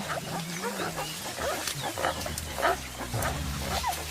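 Mountain gorillas making low, wavering rumbling contact calls while foraging. Short, higher-pitched calls and clicks are scattered over the rumbles.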